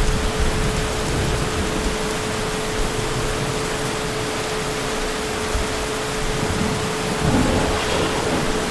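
Heavy rain falling steadily, with low rumbling thunder that swells up about seven seconds in. A faint steady hum runs under it.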